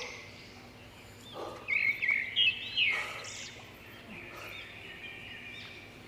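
Songbirds chirping in the surrounding woodland, with a quick run of short, arched chirps about two seconds in over a faint, steady outdoor background.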